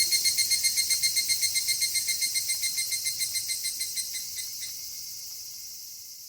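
Crickets chirping in a fast, even pulse of high chirps, about eight a second. The chirping fades out and stops about three-quarters of the way through, leaving a faint hiss.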